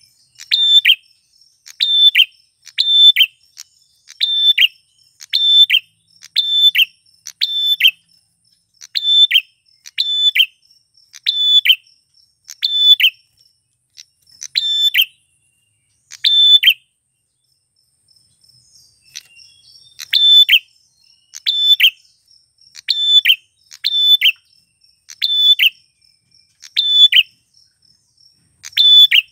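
Male prenjak klawu (a prinia) calling: a loud series of short, sharp, high notes, about one a second, with a pause of about three seconds in the middle. A faint steady high tone runs behind.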